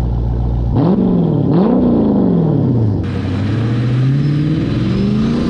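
Dodge Charger Scat Pack's 6.4-litre HEMI V8 through an MBRP 3-inch race catback exhaust with no mufflers or resonators. It idles, is blipped twice in quick succession about a second in, then its revs climb slowly from about three seconds in.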